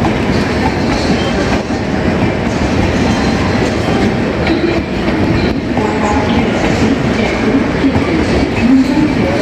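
Indian Railways passenger coaches rolling slowly past on an arriving express, a steady rumble of wheels on rails with clattering over the rail joints.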